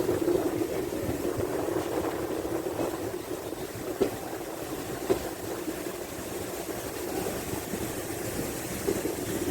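Passenger train running along the track, a steady rumble with two short knocks from the wheels about four and five seconds in.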